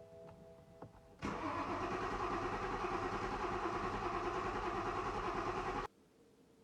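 Car engine running with a steady, rapid pulse; it starts about a second in and cuts off suddenly near the end.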